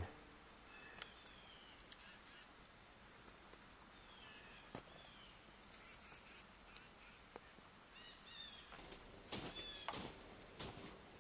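Faint outdoor ambience with scattered bird calls: short high chirps and a few lower falling notes. A few crunches come near the end.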